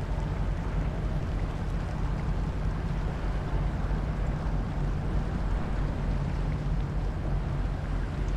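Steady low drone of a river sand boat's engine, running evenly without change, with wind noise on the microphone.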